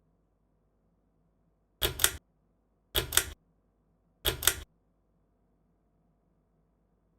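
Three sharp double clicks about a second apart, typical of a ceiling fan's pull-chain switch being pulled and let go to step through its settings.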